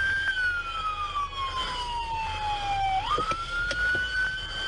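Police car siren on a slow wail: the pitch falls gradually, sweeps quickly back up about three seconds in, holds, and begins to fall again near the end.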